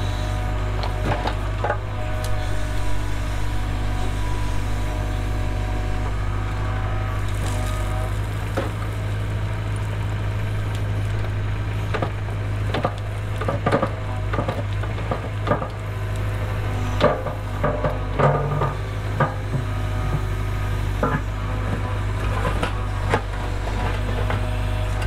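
Cat 307 excavator's diesel engine running steadily, with scattered knocks and clatters of work over it, most of them through the middle stretch.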